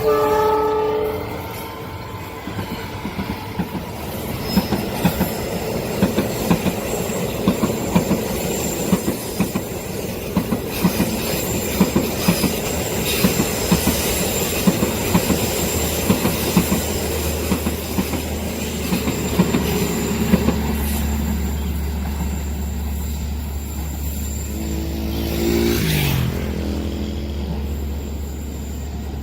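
A train sounds its horn briefly, then passes with a steady run of clickety-clack from its wheels over the rail joints and a thin, steady high squeal. The clicking fades out over the last several seconds, leaving a low steady hum.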